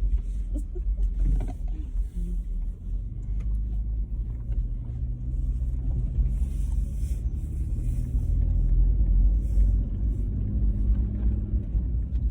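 Steady low rumble of a running vehicle heard from inside its cabin.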